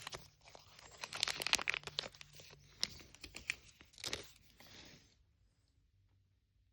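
Small plastic wrappers crinkling and tearing as miniature toys are unwrapped by hand, in quick irregular crackles that stop about five seconds in.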